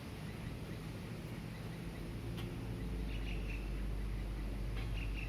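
Early-morning city ambience: a steady low rumble of distant traffic that grows louder about halfway through, with a bird calling in short, quickly repeated high chirps about three seconds in and again near the end.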